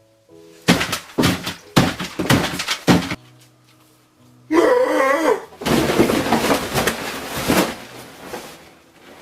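A man's mouth noises imitating an animal eating: a series of loud noisy chomping bursts, then a wavering pitched call about halfway through, followed by a long stretch of noisy gobbling. Background music plays throughout.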